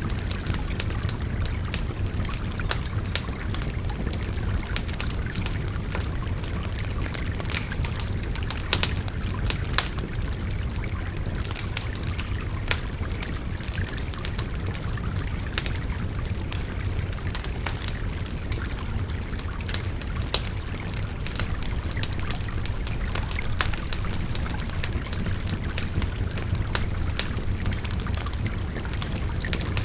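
Wood fire crackling, with many sharp irregular pops, over the steady rush of a babbling river.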